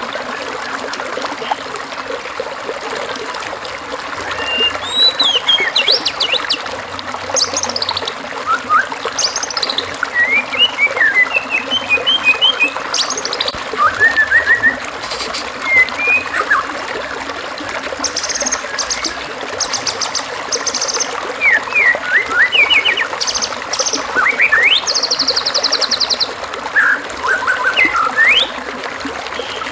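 Songbird singing a varied string of short whistles, chirps and buzzy trills, phrase after phrase, over the steady rush of running water.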